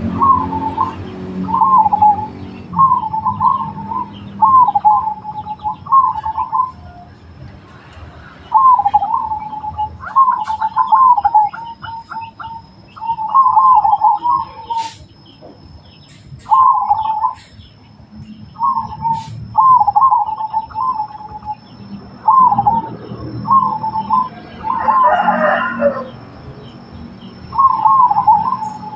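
Zebra dove (perkutut) cooing: a string of short, fast, rolling coo phrases repeated every second or two.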